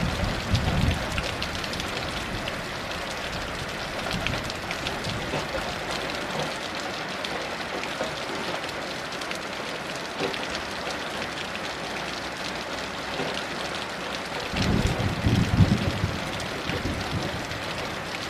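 Steady heavy rain, falling densely on surfaces, with low rumbles of distant thunder at the very start and again about fifteen seconds in.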